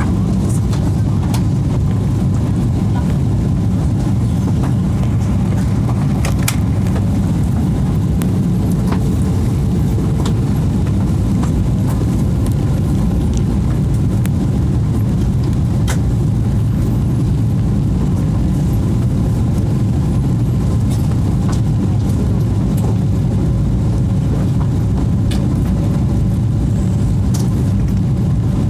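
Steady, loud cabin noise of a Boeing 777-300 airliner in flight, a deep even rumble of engine and airflow, with a few faint scattered clicks.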